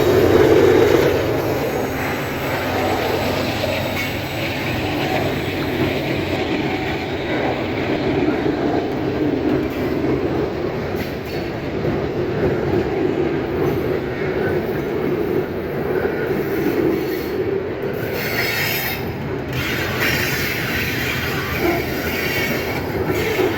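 A Canadian Pacific train rolling by, a steady rumble of wheels on rail, with a harsher, brighter stretch about 18 seconds in.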